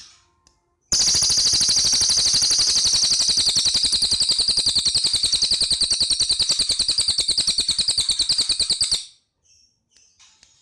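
Cililin bird singing a long, loud, rapid rattling trill of about ten evenly repeated notes a second. The trill starts about a second in and stops sharply about eight seconds later, with fainter chirps around it.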